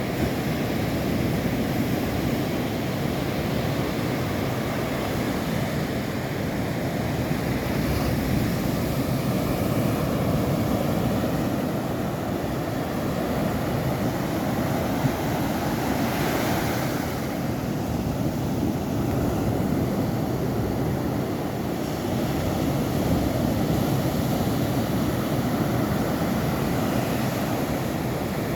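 Steady, loud rushing of water, with a brief brighter hiss about sixteen seconds in.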